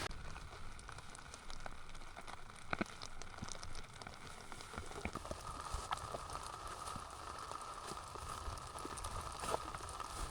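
Light rain with scattered drops ticking, over a faint steady hiss.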